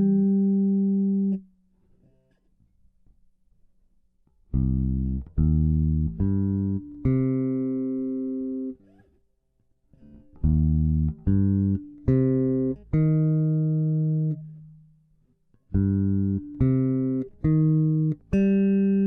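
Solo bass guitar playing short phrases of plucked notes, each phrase of about five notes ending on a longer held note, with brief pauses between the phrases.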